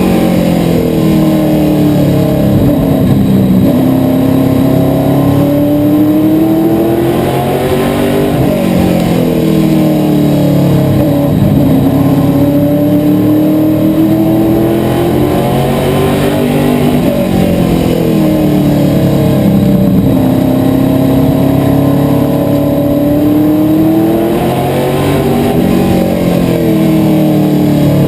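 Asphalt modified race car's V8 engine at racing speed, revving up along the straights and dropping off into the turns, with the rise and fall repeating about every eight seconds.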